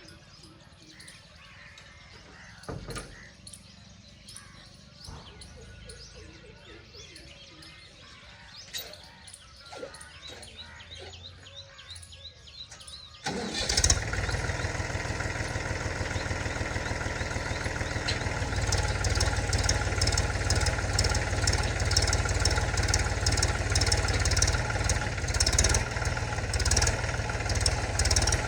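Birds chirping faintly until a Mahindra tractor's diesel engine starts suddenly about halfway through. It then runs steadily, and picks up and runs harder about five seconds later.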